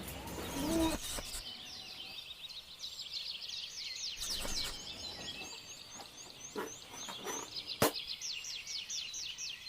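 Many small birds chirping rapidly in a steady chorus, with a short lower call in the first second and one sharp click near the end.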